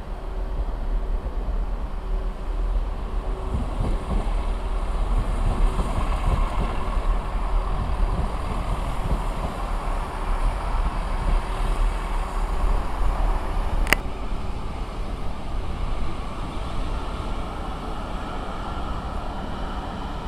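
A train running past through the station: a steady rumble of engine and wheels that grows louder in the middle and eases off toward the end, with one sharp click about 14 seconds in.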